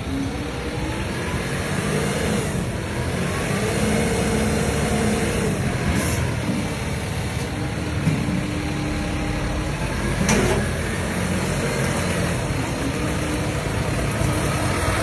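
Tractor engine running steadily, with a short sharp sound about ten seconds in.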